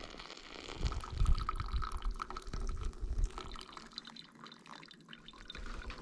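Liquid pouring and dripping.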